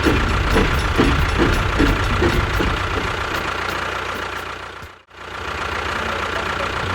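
An engine running with a regular chug, about two pulses a second, for the first few seconds. It then settles to a steady drone, broken by a brief dropout about five seconds in.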